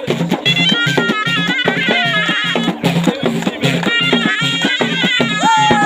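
Ghaita, the Moroccan double-reed shawm, playing a fast ornamented folk melody in quick stepping notes over a steady drum beat.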